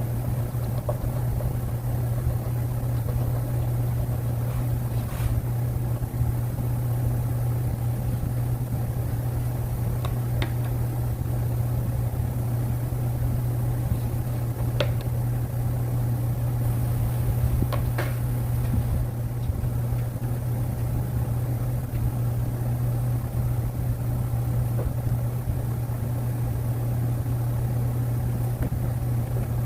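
Steady low mechanical hum, like a motor or fan running without change, with a few faint clicks.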